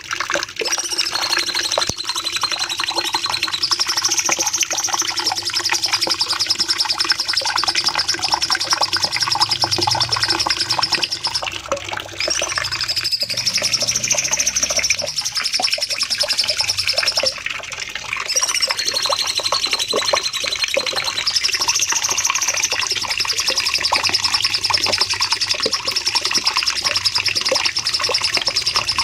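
Cucak cungkok singing long, fast, high-pitched trilling phrases in the 'nembak panjang' style, with short breaks about twelve and seventeen seconds in.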